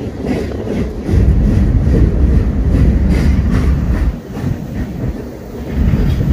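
Kansas City Southern manifest freight train's autorack cars rolling past below, a heavy low rumble with sharp clicks of wheels over the rail. The rumble swells about a second in, eases off past the middle and builds again near the end.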